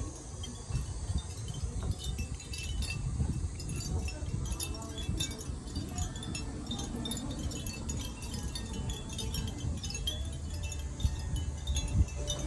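Chimes tinkling lightly and irregularly, with a low rumble underneath.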